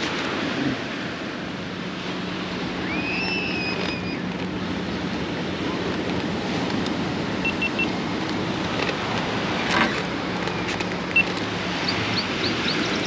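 Motorcycle running at a steady cruise, a constant low engine hum under wind rushing over the microphone. A brief high gliding tone sounds about three seconds in, and a few short high chirps come near the end.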